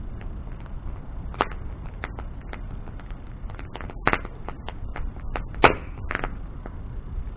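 Wood bonfire burning, crackling and popping at irregular intervals over a low steady rumble of the flames, with a loud sharp pop about three quarters of the way in.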